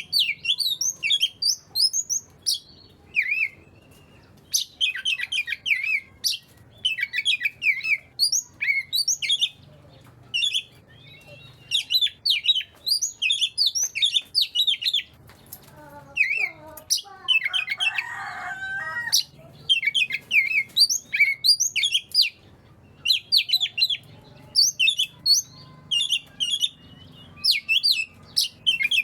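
Oriental magpie-robin (kacer) singing, a run of short, varied whistled and chirping phrases with brief pauses between them, with a lower, harsher stretch of calling about halfway through.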